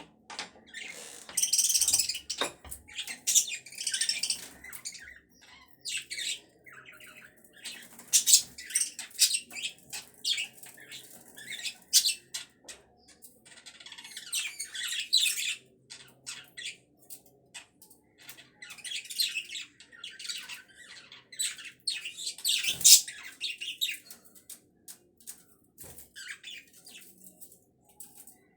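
Pet budgerigars chirping, chattering and squawking in quick high-pitched bursts, with brief pauses between the flurries of calls.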